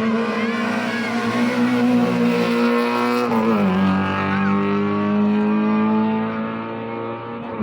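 Historic rally car's engine running at high steady revs, its pitch dropping once a little after three seconds in and then holding steady again.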